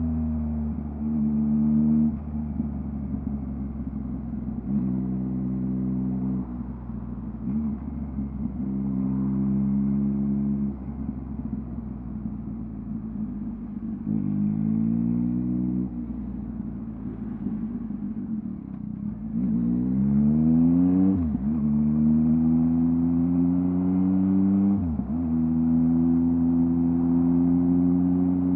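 2023 Yamaha MT-09's 890 cc inline-three engine through a LeoVince LV Race full exhaust while riding. The revs rise and fall with several throttle openings. About twenty seconds in the engine pulls hard with rising revs and two quick upshifts, then settles to a steady cruise.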